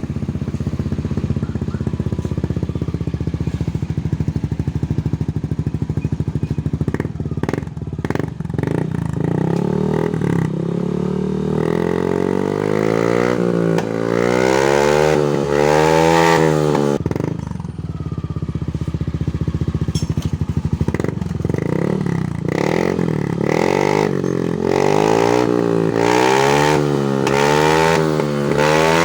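Yamaha NMAX 155 scooter's single-cylinder engine running through an aftermarket Daytona GP Taper Slash exhaust. It idles steadily, then is revved up and down over and over from about ten seconds in, drops back to idle briefly, and is revved again in repeated blips toward the end.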